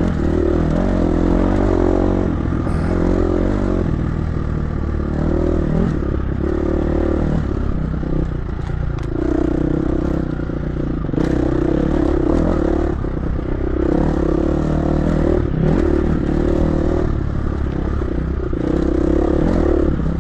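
Dirt bike engine running under load while riding over rough ground, the revs rising and falling as the throttle is worked, with a few short knocks along the way.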